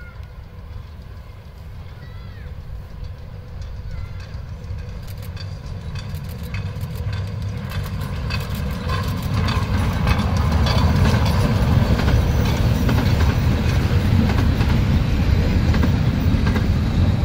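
Vintage metre-gauge electric railcar and its wooden coaches approaching and passing close by: a low rumble grows louder over about ten seconds and then holds, with the wheels clicking over the rail joints.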